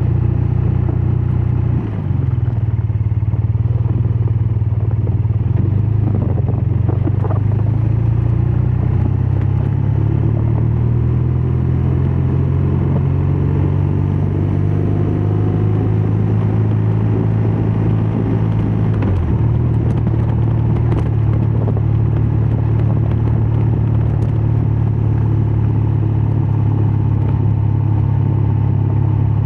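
BMW R12 nineT's boxer twin engine and exhaust running steadily under way, heard from the moving motorcycle, with brief breaks in the note about two seconds in and again past halfway.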